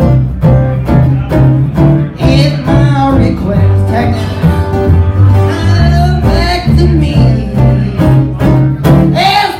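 Live bluegrass band playing, with plucked strings over a steady walking bass line.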